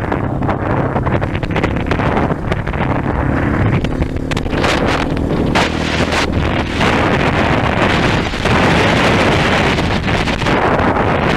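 A 230 cc trail motorcycle's engine running under way, with heavy wind buffeting the microphone.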